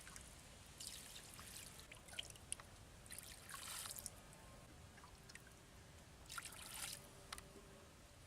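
Faint water pouring and trickling in three short spells, with a few light clicks between them.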